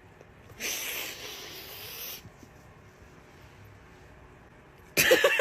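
A dog's long, breathy hissing breath about half a second in, lasting about a second and a half. Near the end a person starts laughing loudly.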